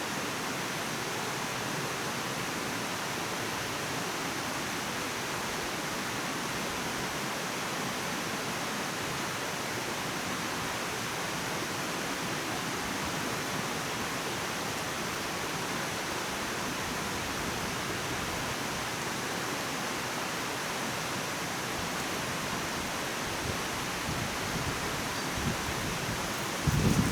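A steady, even rushing noise, such as flowing water or wind, with a few low thumps near the end.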